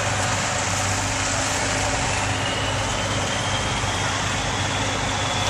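Semi truck's diesel engine running steadily, with a faint whine rising slowly from about two seconds in.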